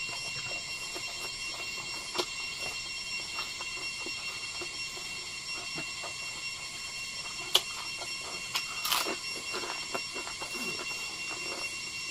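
Close-up eating sounds of a person chewing rice and fried egg eaten by hand: soft chewing and mouth noises, with a few sharp clicks, one about two seconds in, one past seven seconds and a cluster around nine seconds. Under it runs a steady high-pitched ringing drone.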